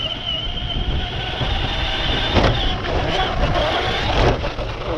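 Radio-controlled car driving, its motor giving a steady high whine over a rough rumble of wheels and ground noise; a lower rising whine comes near the end.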